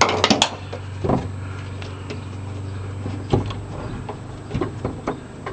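Scattered clicks and knocks of hands and tools working on a van's rear door handle and license plate light assembly, a cluster at the start and a sharp knock a little after the middle, over a steady low hum.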